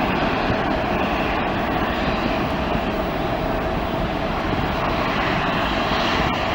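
Jet airliner's engines running with a loud, steady noise.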